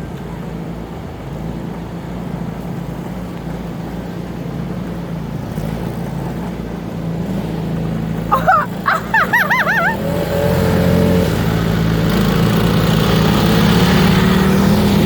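Riding lawnmower engine running steadily, getting louder from about ten seconds in. A brief warbling wail sounds over it for about two seconds shortly before the engine grows louder.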